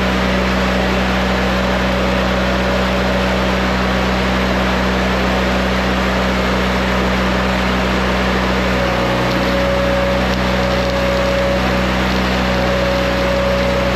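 Bobcat skid steer's diesel engine running steadily to power its on-board stick welder, with a steady hiss over it.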